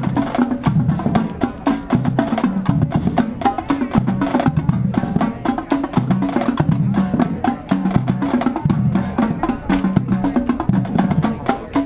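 A marching drumline playing a fast, loud cadence: sharp snare strokes and rim clicks rattling over pitched bass drum notes.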